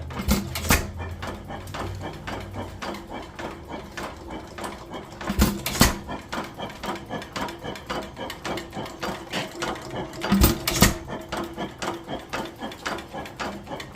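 A small engine running quietly after start-up, ticking evenly about three times a second, with a pair of louder knocks near the start, again about five and a half seconds in and about ten and a half seconds in.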